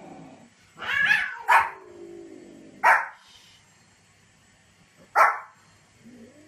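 Small white spitz-type dog barking four times in short, sharp barks, about 1, 1.5, 3 and 5 seconds in.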